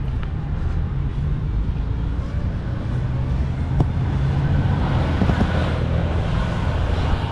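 A car engine running steadily with a low rumble, and a single sharp click about four seconds in.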